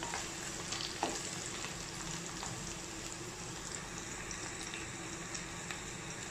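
Sliced onions, garlic cloves and dried red chillies sizzling steadily in hot oil in a pan as they sauté, with a few scrapes and taps of a wooden spatula in the first second.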